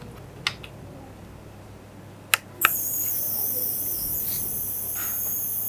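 A switch clicks, then a steady high-pitched hiss with a thin whine starts about two and a half seconds in: a homemade PVC-pipe mini cooler switched on, its small 5-volt fan and humidifier module running.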